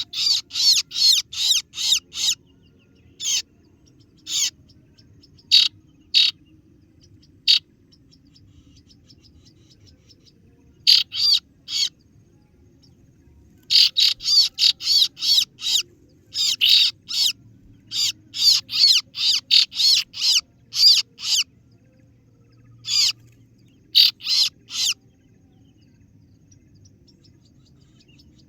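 Kaso-kaso bird lure call: sharp, high 'ciet ciet' chirps, sometimes single notes, sometimes quick runs of five to ten notes, separated by pauses of a second or more.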